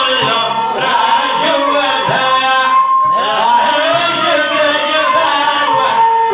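Moroccan malhun music: melodic instruments play over hand percussion, with a note held about two seconds in and a short break near three seconds.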